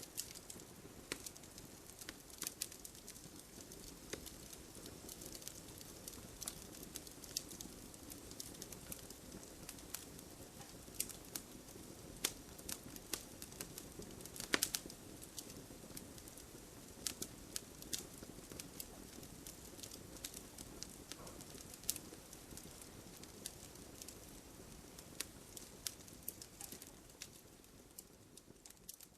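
Wood fire crackling, with irregular sharp pops and snaps over a soft steady hiss; one pop about halfway through is the loudest. The sound fades out near the end.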